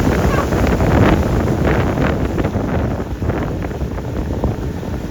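Wind buffeting the microphone: a loud, low, ragged rumble with short hissing streaks over it.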